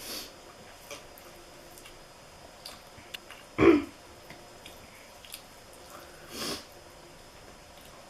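A person sniffling while eating very spicy noodles, with small clicks of eating and one loud, sharp breath sound about three and a half seconds in, followed by another sniff near the end.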